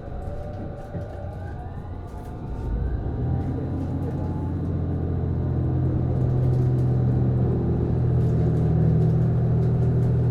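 Inside a JR East HB-E210 series hybrid train, heard from the car that carries the Komatsu DMF15HZB-G diesel engine-generator. About three seconds in, a deep, steady engine drone comes in and grows louder. It sits over the whine of the traction motors and the rumble of the running train.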